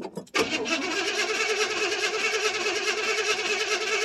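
1979 Chevrolet C10's 305 V8 with a two-barrel carburetor and glass-pack muffler firing on a cold start and running. About a third of a second in it catches, its pitch rises briefly, then it runs steady at a fast idle.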